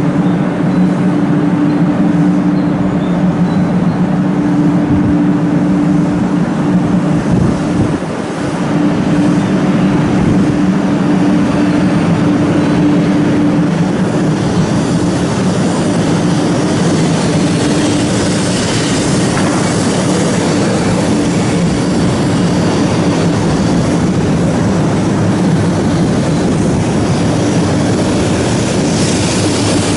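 Shinkansen train departing a station: a steady loud hum with two low tones for the first half, which fade as higher-pitched running noise builds in the second half.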